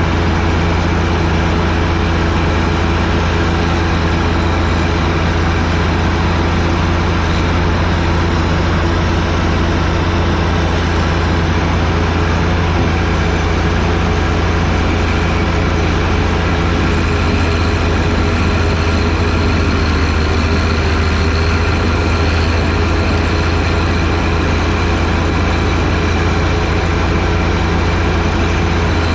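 John Deere 1025R sub-compact tractor's three-cylinder diesel engine running steadily, its pitch sagging slightly about two-thirds of the way through.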